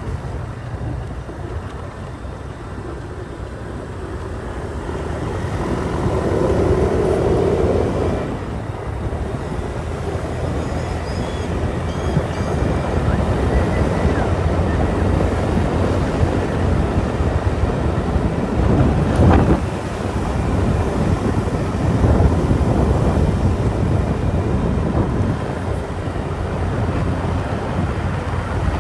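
Motorbike riding: the engine runs under wind rushing over the microphone. It swells louder for a couple of seconds about six seconds in, and there is a single short knock about two-thirds of the way through.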